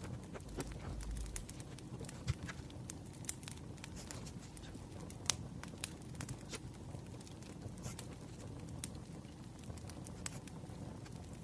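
Campfire crackling: irregular sharp pops and snaps, a few louder than the rest, over a steady low rustle of the burning fire.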